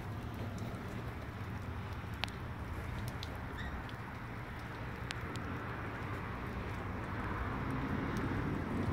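Steady outdoor background hiss with a low rumble, broken by a few scattered sharp ticks and one short chirp-like blip about three and a half seconds in.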